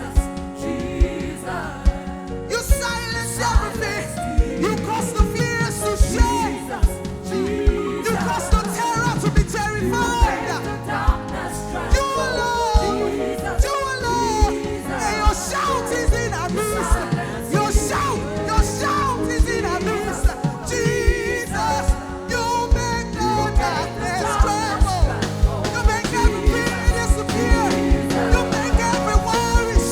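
Live gospel worship band music: a singer's wavering melodic line over sustained chords and a steady drum beat.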